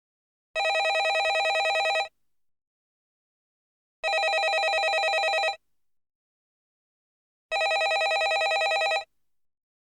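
Landline telephone ringing: three rings of about a second and a half each, with about two seconds of silence between them, each ring a fast trill.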